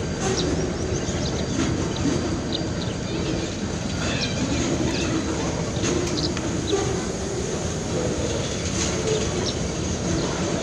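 Freight train's oil tank wagons rolling slowly past, a steady rumble of steel wheels on rail, with short high-pitched squeaks scattered through it.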